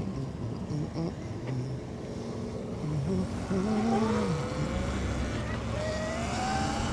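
Wind rushing over the microphone while riding a Sur-Ron X electric dirt bike. About halfway through, the motor's whine comes in, gliding up and down in pitch as the bike speeds up and eases off.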